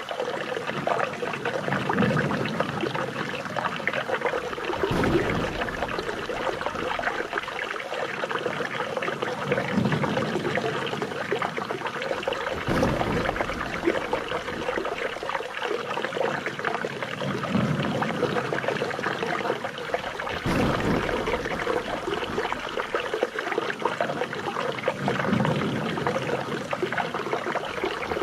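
Flowing water trickling and splashing steadily, with the same pattern repeating about every eight seconds.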